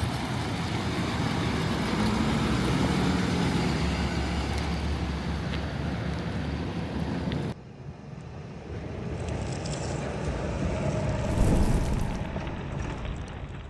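Steady engine noise with a heavy low rumble. It cuts off abruptly about halfway through, and the engine noise returns quieter, swells and then fades.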